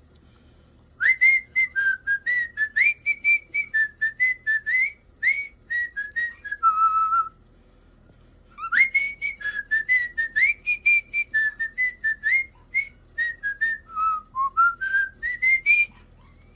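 A whistled tune in two phrases of quick notes with short upward slides into them. The first phrase ends on a held lower note, and after a short pause the second phrase rises at the end.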